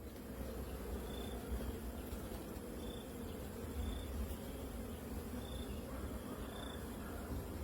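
Honeybees buzzing, a steady, continuous hum with no breaks.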